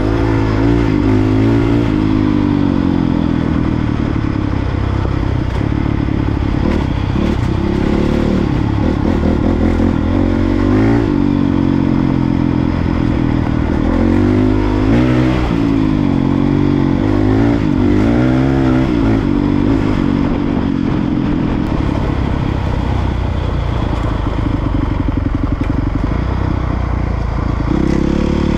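Honda CRF450R dirt bike's single-cylinder four-stroke engine under way on trails, its revs rising and falling over and over as the throttle is worked.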